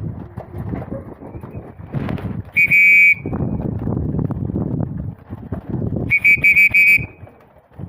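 Homing pigeons' wings clattering and flapping as the birds come back in to the loft. A high electronic beep sounds once about two and a half seconds in, and a quick run of about four beeps near the end.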